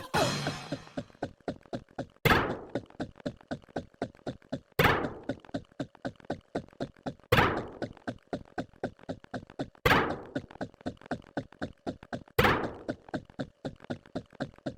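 A fast, even run of short clicks, about six a second, broken every two and a half seconds by a loud thunk that rings out briefly: a looping rhythmic sound effect.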